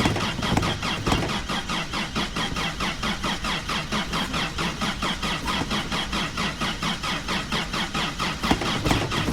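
Carbureted Toyota 22R four-cylinder running on its cold start after sitting for more than a month, with a steady, even pulse of about five or six beats a second.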